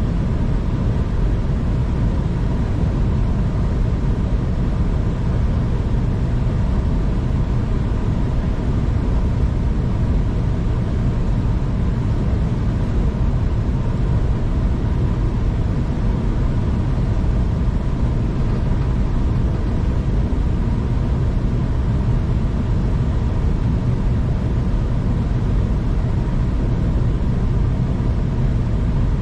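V/Line passenger train heard from inside the carriage while running steadily: a continuous low rumble of wheels on track, with a faint steady hum over it.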